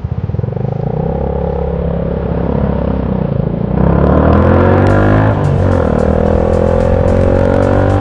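Motorcycle engine pulling away and accelerating, its pitch climbing, dropping briefly a little after five seconds in at a gear change, then climbing again.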